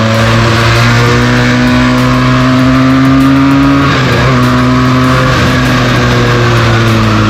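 Benelli TNT 300's parallel-twin engine through its stock exhaust, under way: revs climb slowly for about four seconds, break briefly as for a gear change, then run steady and ease off a little.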